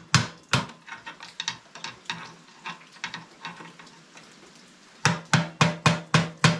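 Hammer blows on metal, working a stuck part loose: two hard hits at the start, a few lighter taps, then from about five seconds in a quick, even run of blows, about three a second, each with a short metallic ring.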